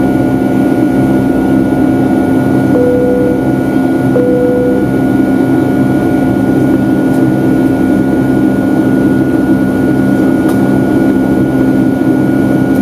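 Steady cabin noise of a Boeing 757-200 climbing on its Rolls-Royce RB211 engines: a loud, even rush with a low hum. About three seconds in, two short beeps at the same pitch sound a second and a half apart.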